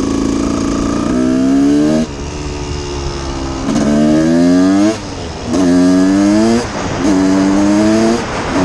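1989 Honda CR250's 250 cc single-cylinder two-stroke engine revving in four bursts, the pitch climbing through each before the throttle eases off between them.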